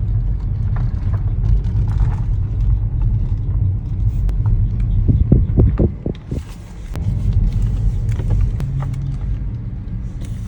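Steady low rumble of a car heard from inside the cabin as it moves. It is broken by a few short knocks about halfway through, followed by a brief quieter spell.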